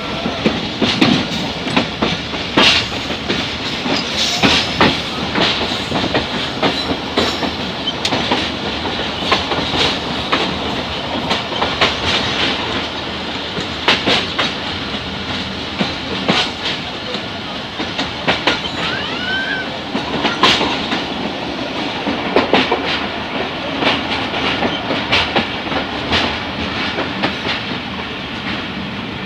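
Pakistan Railways express passenger train in motion, heard from an open coach window: a steady running rumble, with the wheels clacking sharply and irregularly over rail joints.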